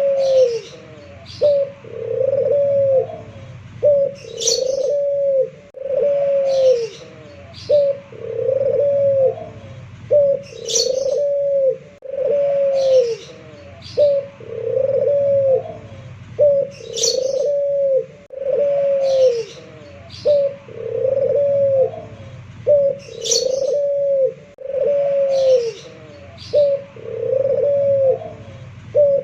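Puter pelung (domestic ringneck dove) cooing over and over, each phrase a short note followed by a longer arched coo that falls away, about every two seconds. Brief high chirps are heard between the coos.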